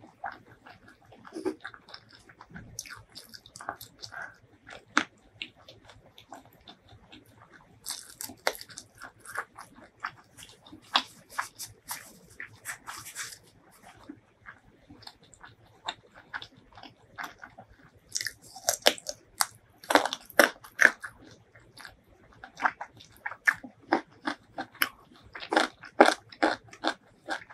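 Close-miked eating sounds from a meal of spicy fried chicken wings and rice: steady chewing with wet mouth clicks, broken by several bursts of crisp crunching.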